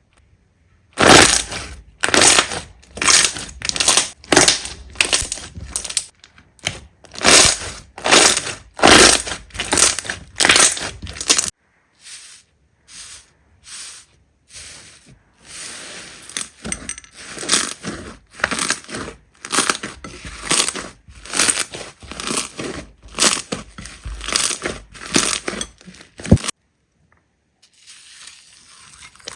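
Slime being squeezed and pressed by hand, squishing in a steady rhythm of about two squeezes a second. The squishes are softer for a few seconds near the middle, then loud again, and they stop suddenly near the end.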